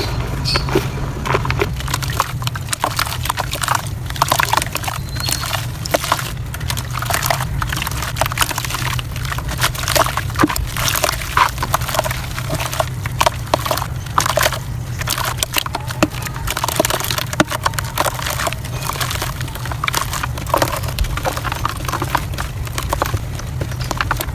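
Soft dirt crumbling, with a dense run of small crackles and crunches. A steady low hum runs underneath.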